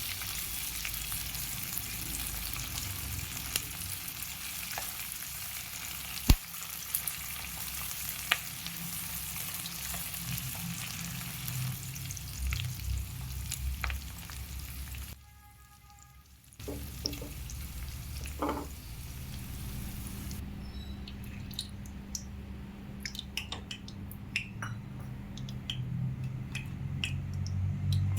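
Food sizzling in hot oil in a pan, with a spoon scraping and tapping as it is stirred. The sizzle breaks off briefly about halfway, then comes back fainter, with more frequent taps and clicks.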